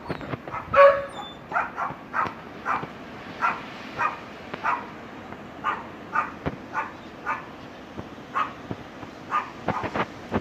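A dog barking repeatedly: a string of short barks at irregular intervals, the loudest about a second in, over a steady rush of wind.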